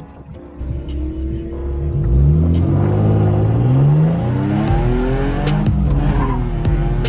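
Drift car engine revving, climbing in pitch about two seconds in and then swinging up and down as the throttle is worked.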